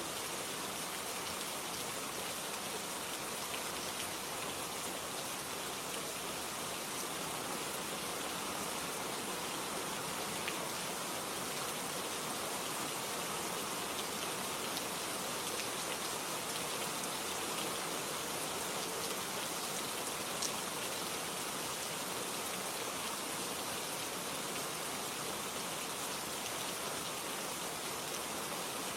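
Steady rain falling, an even hiss with a few single drops ticking out now and then.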